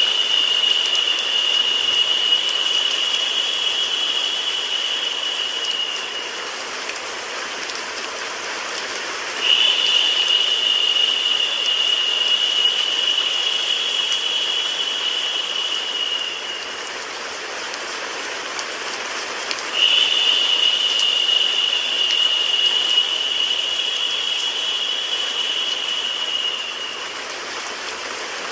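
Steady rain sound mixed with white noise. A high, steady tone sounds over it three times, each time for about six seconds and roughly ten seconds apart.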